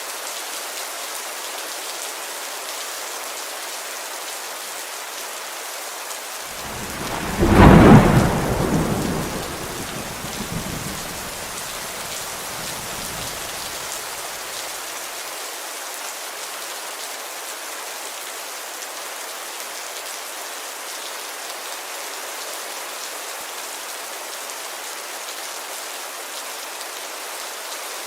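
Steady heavy rain falling on a window, with one loud thunderclap about seven seconds in that rumbles and dies away over the next several seconds.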